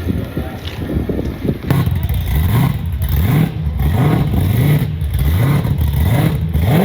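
A car engine idling roughly. From about two seconds in it is revved over and over, the pitch climbing and dropping back about once a second.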